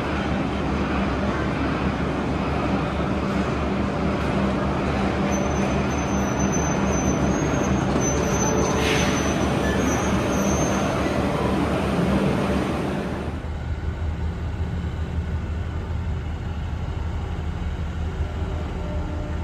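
Train running in a station with a steady rumble and low hum, and a thin high squeal partway through. About two thirds in, the rumble drops suddenly to a quieter steady hum.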